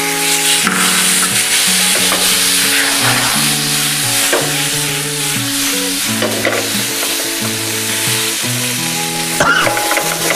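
Tomato, onion and garlic sizzling in hot oil while a wooden spatula stirs and scrapes them around the pan. Background music with held notes plays underneath.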